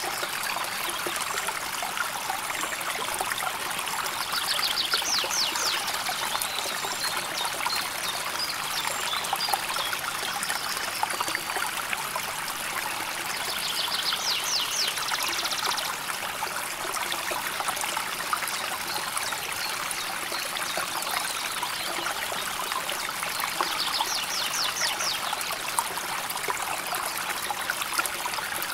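River water flowing steadily over stones, an even babbling and trickling. Three times a brief, high, rapid trill rises above it, the longest about halfway through.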